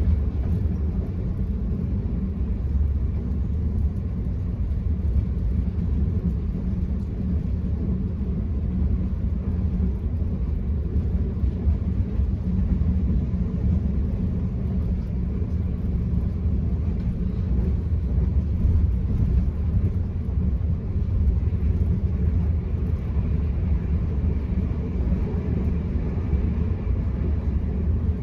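Steady low rumble of a moving Enterprise passenger train heard from inside the carriage, with wheels running on the rails and no breaks or clicks.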